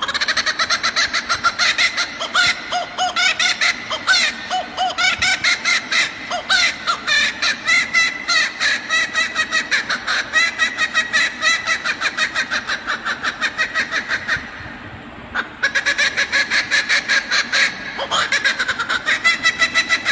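Male laughing kookaburra giving its laughing call: a long run of rapid repeated notes, several a second, breaking off briefly near the end before it starts up again.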